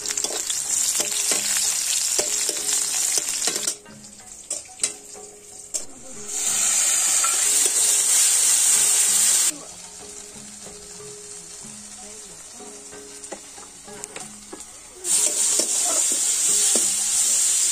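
Hot oil sizzling loudly in an aluminium wok as a spice paste fries and is stirred with a metal spatula. The sizzle drops away abruptly twice, leaving quieter stretches with the clicks and scrapes of the spatula, then comes back. Soft background music plays under it.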